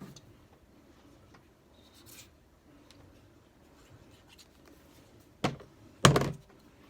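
Quiet handling of paper on a work surface: faint rustles and scratches as a cut paper piece is placed. Near the end come two short, sharp knocks, the second the loudest.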